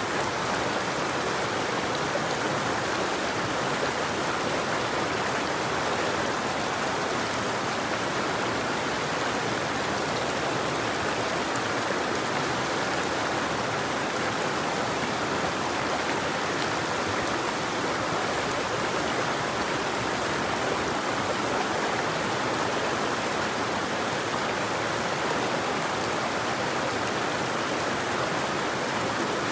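River water flowing in a steady, unbroken rush, with no birdsong.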